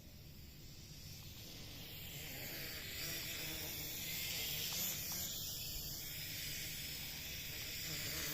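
JC801 toy quadcopter's propellers buzzing with a hissing whine that grows louder over the first few seconds, then holds steady.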